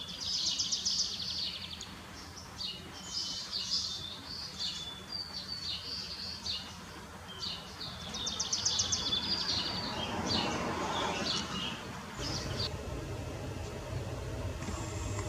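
Small songbirds singing: repeated high trills and chirps over a steady low hum. The birdsong stops about twelve seconds in, and the hum grows louder.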